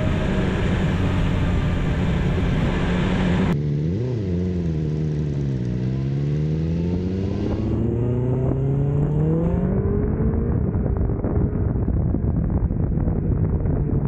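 BMW S 1000 XR inline-four motorcycle engine running at road speed with wind rush. About four seconds in, the engine note drops and then climbs steadily for several seconds as the bike accelerates, followed by a rougher, duller stretch of engine and road noise.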